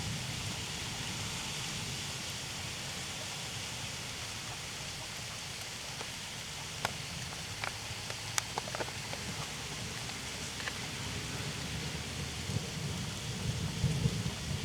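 Steady rain falling during a thunderstorm, with a few sharp ticks of drops striking something close by in the middle. A low rumble of thunder builds near the end.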